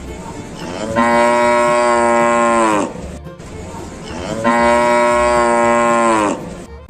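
A cow mooing twice, each moo a long, even call of about two seconds that sags in pitch as it ends.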